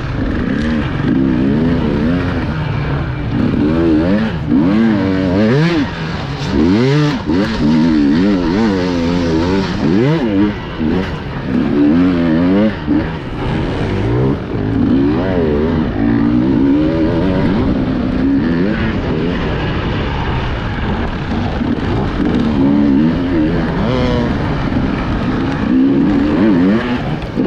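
Enduro motorcycle engine heard from the rider's own bike, revving up and down constantly as the throttle is worked over rough terrain, with brief drops where the throttle is shut off.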